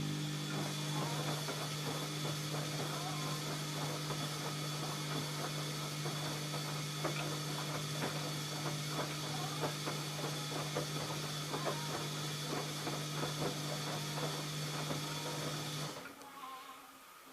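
ELIN A 100 E washing machine running with a steady motor hum, a hiss and a scattering of small clicks and rattles. It cuts off suddenly near the end.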